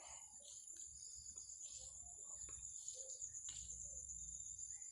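Crickets chirping in a steady, faint, high-pitched chorus, with a few faint scattered sounds beneath it.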